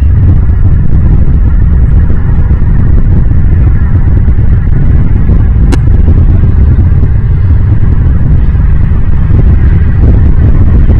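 A loud, steady low rumble with no clear pitch, and a single sharp click about six seconds in.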